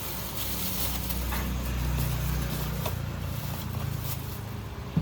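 A low mechanical hum that swells and then fades over about three seconds, under light clatter, with a sharp knock near the end.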